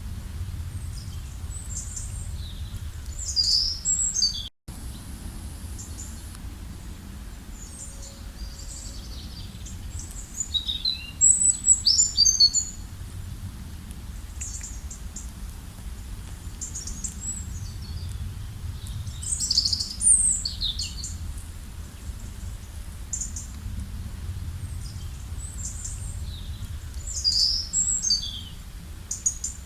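Several wild birds singing and calling in short, quick, high phrases, with the loudest burst about eleven seconds in, over a steady low background rumble. The sound cuts out for an instant about four and a half seconds in.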